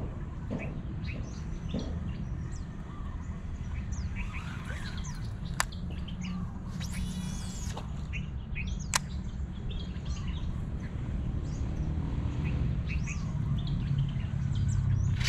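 Small birds chirping and calling, many short high chirps scattered through, over a steady low rumble, with a couple of sharp clicks.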